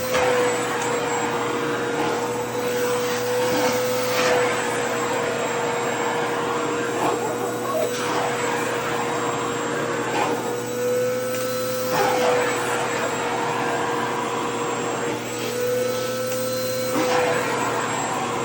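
Vacuum cleaner running with a steady motor whine over its suction hiss. About every four seconds the suction noise surges louder, as a skirt's fabric is drawn into the nozzle.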